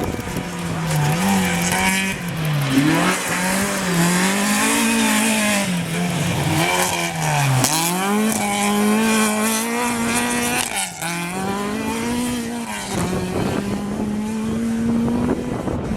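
Rally car engine at hard throttle on a tarmac stage, its note climbing and falling again and again as the driver accelerates, lifts and changes gear, with a sharp dip about halfway through and another a few seconds later.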